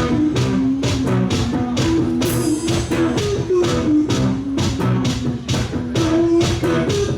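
Live rock band playing an instrumental passage: drums keeping a steady beat under guitar, with no singing.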